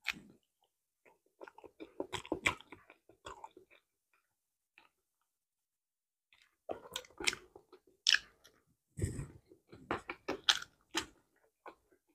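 Close-miked chewing of soft banana: wet mouth and lip-smacking sounds in two runs, with a quiet stretch of a couple of seconds between them.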